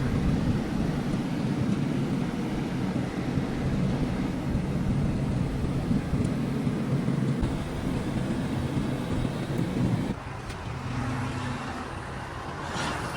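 Car on the move: a steady engine hum and road noise, easing off a little about ten seconds in.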